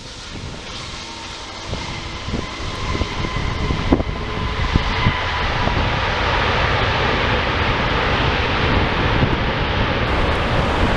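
Wide-body jet airliner passing close by, its engine rush growing louder over the first few seconds and then holding, with a faint high whine running through it.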